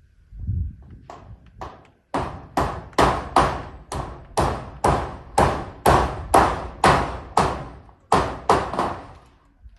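Hammer driving nails: a few lighter taps, then a steady run of hard blows about two to three a second, each with a short ringing tail.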